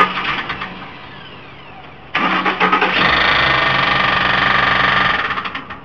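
Ford Expedition engine started and run briefly twice, with a fast, even knocking through the running; it dies away each time. The knock is the sign of a bad connecting rod.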